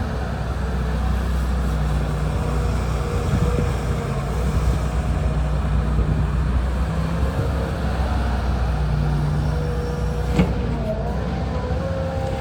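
Hitachi ZX210LC-7 excavator's diesel engine running steadily, its low note shifting as the load changes, with a faint whine that wavers in pitch. A single sharp knock comes about ten seconds in.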